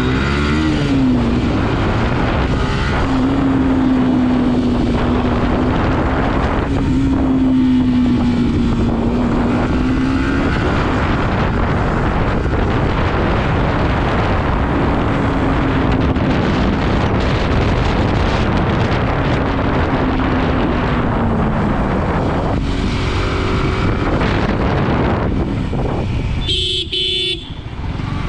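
Yamaha R15 single-cylinder sport motorcycle riding at speed, its engine note held and gliding slightly over steady wind and road noise. A horn honks briefly near the end.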